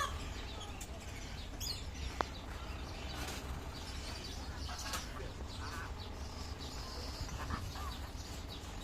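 Scattered short bird chirps and calls at varied pitches over a steady low hum, with a single sharp click about two seconds in.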